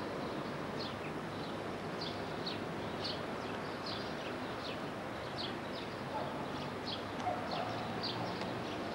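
Small songbirds chirping: a quick run of short, high notes, each sliding downward, about two a second, over a steady background hiss and hum.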